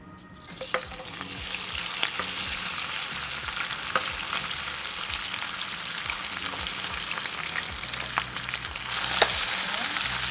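Corn-flour-coated squid pieces going into hot oil and frying with a loud, steady sizzle and scattered sharp pops. The sizzle starts about half a second in and grows louder near the end.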